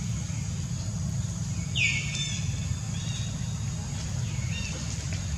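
Outdoor ambience with a steady low rumble and a few high bird chirps: one sharp falling chirp about two seconds in, then softer short calls.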